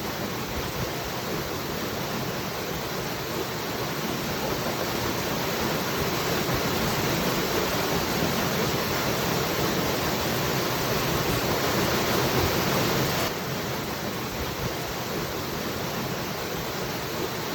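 Waterfall rushing, a steady dense hiss with no breaks; it drops slightly in level about thirteen seconds in.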